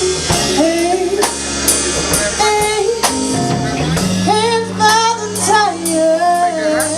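Live band playing a song, a woman singing the melody over sustained keyboard or bass chords and a drum kit keeping time with regular cymbal and snare hits.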